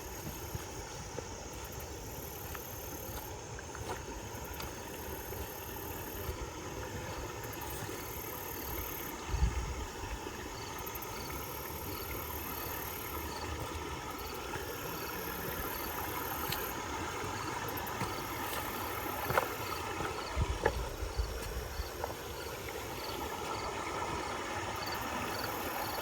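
Small camera drone's propellers humming steadily, slowly growing louder, with two low thumps about ten and twenty seconds in.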